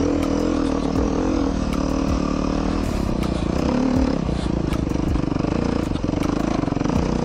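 Beta 390 RR-S dual sport motorcycle's single-cylinder four-stroke engine running steadily while riding rough, rocky trail, with scattered knocks and clatter over it.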